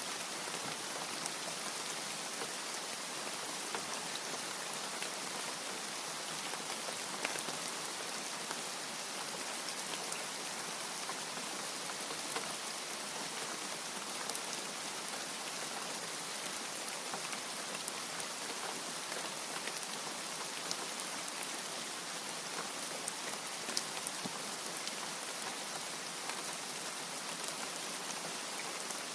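Steady heavy rain falling, an even hiss with scattered sharp ticks of individual drops.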